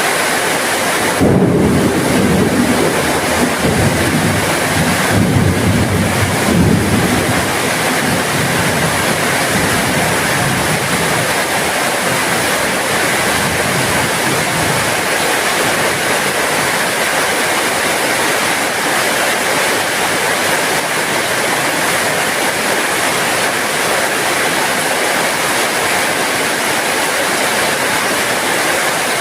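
Steady heavy rain, with a low rumble of thunder starting about a second in and fading out after about six seconds.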